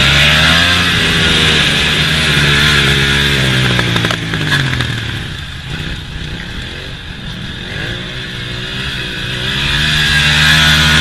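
Motorcycle engine revving, its pitch rising and falling again and again; it drops back and quietens about halfway through, then comes up loud again near the end.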